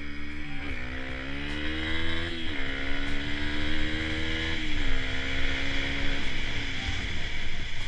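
Dirt bike engine accelerating through the gears, its pitch climbing steadily and then dropping sharply at each of about four upshifts.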